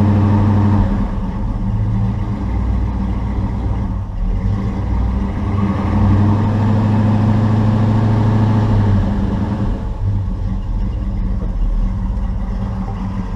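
Chevrolet 350 small-block V8 running just after a cold start, steady, its sound swelling and easing a couple of times.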